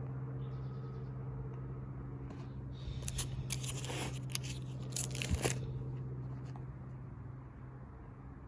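Photo album pages being handled and turned: a few seconds of crinkling and rustling about three seconds in, over a steady low hum in the room.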